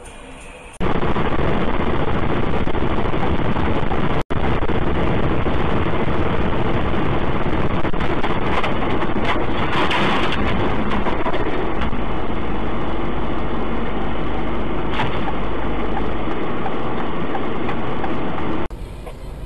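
Loud, steady vehicle driving noise from a car's engine and road. It starts abruptly about a second in, drops out for a moment around four seconds, and cuts off near the end.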